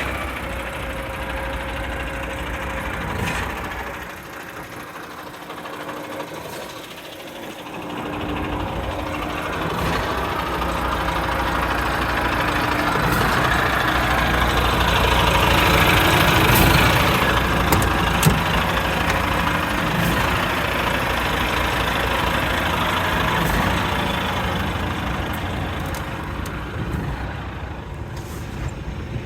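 Volvo FM410 truck's 13-litre inline-six diesel engine idling. The low engine sound drops away briefly about four seconds in, then returns and grows louder through the middle.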